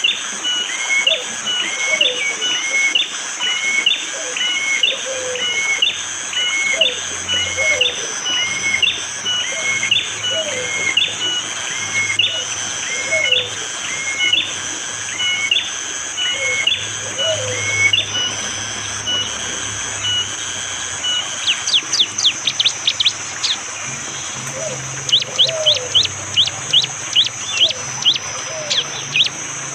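Prenjak jali (a prinia) calling: a repeated two-part chirp about once a second, then near the end two fast runs of sharp, clipped 'shot' notes. A steady high insect buzz and occasional low calls from another bird run underneath.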